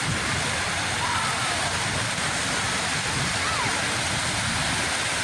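Sea waves washing on the shore: a steady, unbroken rush of surf.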